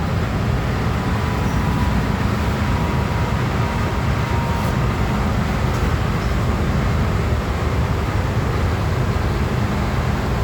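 MTR M-Train metro car running, heard from inside the cabin: a steady, loud low rumble of wheels on rail and running gear, with a faint thin whine that fades out about halfway through.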